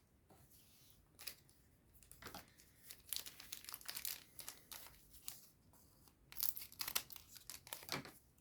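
Foil booster pack wrapper being crinkled and torn open: a few sharp crackles at first, then two longer runs of dense crinkling, the second starting about six seconds in.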